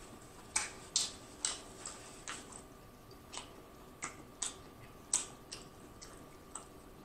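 Close-miked wet mouth clicks and smacks of someone chewing seafood with the mouth closed, irregular and soft, about two a second at first and sparser later.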